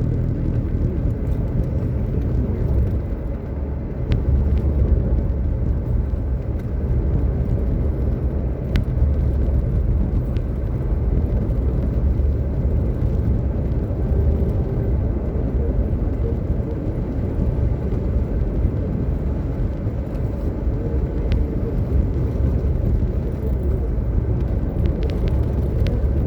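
Steady low rumble of a pickup truck driving, heard from inside the cab: engine and tyre noise on the road.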